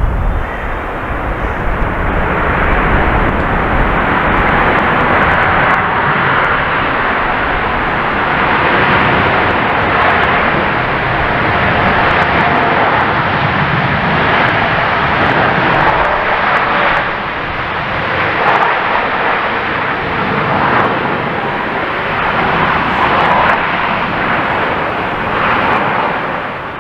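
Boeing 777 jet engines running loud and steady through its landing, a broad continuous rushing noise that swells slightly and fades a little near the end.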